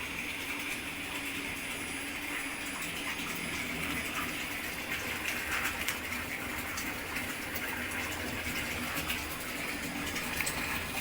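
Hot water gushing steadily into a 600-litre wash tub as it is filled for the milk vat wash.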